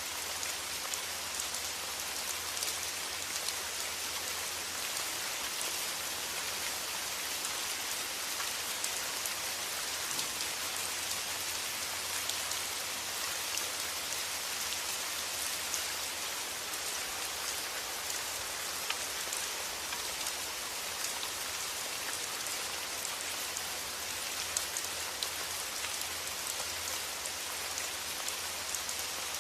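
Steady rain: an unbroken patter of many small drops, with a faint low rumble underneath.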